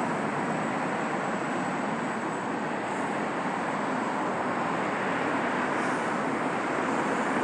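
Boeing 737-800's CFM56 jet engines running through a landing, a steady rush of noise with a faint high whine on top.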